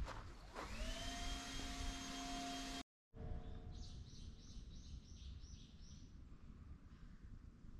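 A steady hum whose pitch rises and then holds, followed after a break by a small bird calling in a quick run of about seven short, high notes, faint against quiet outdoor ambience.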